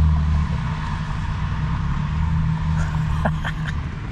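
Car engine idling, a steady low hum heard from inside the parked car's cabin, with a few short faint sounds about three seconds in.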